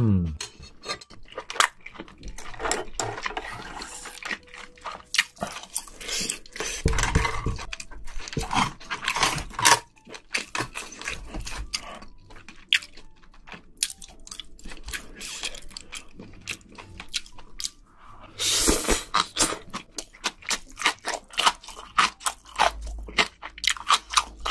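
Close-miked chewing and crunching of spicy braised seafood and bean sprouts, with many short, irregular wet clicks from the mouth.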